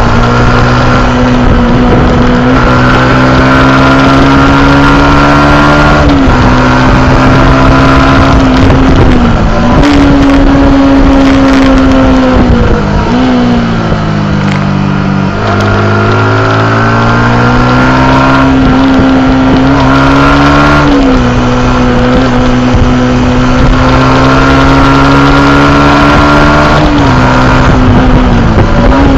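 Yamaha YZF R125's 125 cc single-cylinder four-stroke engine running hard at high revs. Its pitch holds or climbs, then dips briefly at gear changes several times. Around the middle it falls steadily, then climbs again.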